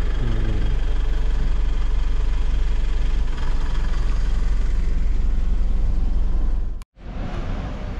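Vehicle engine running at idle with a steady low rumble. The sound cuts out abruptly near the end, then comes back as a different, noisier background.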